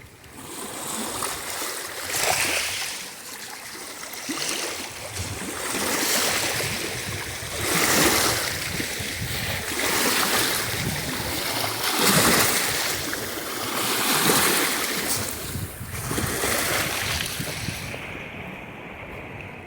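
Sea surf: waves breaking and washing on the shore in a hissing rush that swells and ebbs every couple of seconds, with wind buffeting the microphone. Near the end the hiss suddenly loses its top.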